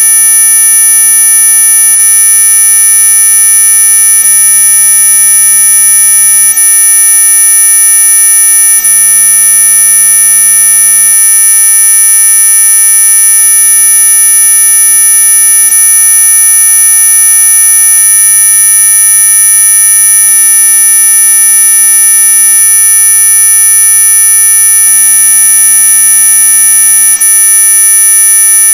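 Synthesized mosquito-repellent tone: a loud, steady electronic buzz made of many pure tones sounding at once. The strongest tones are very high-pitched, near the top of hearing, and the sound does not change at all.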